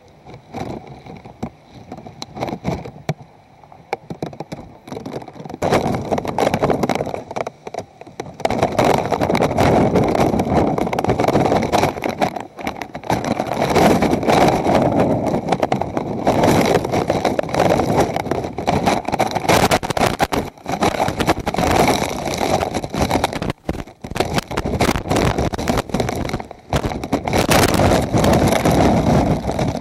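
Hurricane wind blowing hard and gustily across the microphone: fairly quiet for the first few seconds, then loud, uneven rushing and buffeting from about five seconds in.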